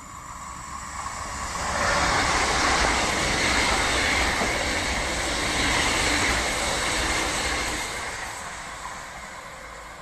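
A train passing. The sound builds over the first two seconds, runs loud for about six seconds, then fades away.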